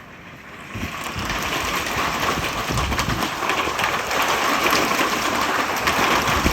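Small hailstones pelting down, a dense hiss of many tiny hits on hard surfaces that grows much louder about a second in and stays heavy.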